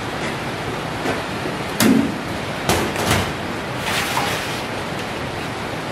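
Steady hiss of rain on a tin roof, with a few sharp knocks and rattles as a sheet of stainless steel is set down and shifted on a workbench top, the loudest about two seconds in.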